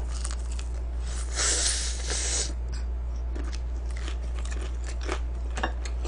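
Close-up eating sounds: wet chewing with many small mouth clicks, and a louder hissing burst lasting about a second and a half, starting about a second in, over a steady low hum.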